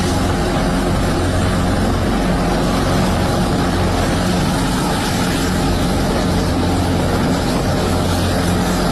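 Helicopter running with a steady, unbroken engine and rotor drone and a strong low hum.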